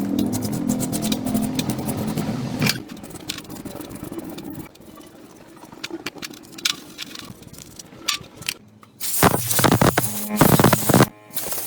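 A small motor running steadily that stops about three seconds in, followed by light taps and scraping, then two short, loud bursts near the end.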